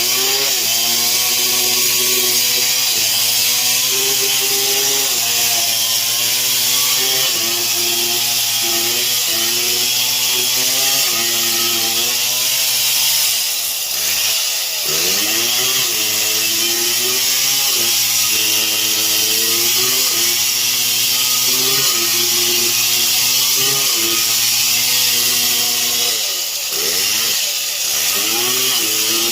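Stihl MS 070 two-stroke chainsaw running under load as it saws through wood, its engine pitch wavering with the cut. The pitch sags steeply and climbs back up twice, about halfway through and near the end.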